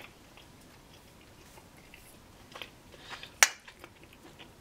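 A person chewing a bite of fried tofu, with soft mouth clicks and one sharp click about three and a half seconds in.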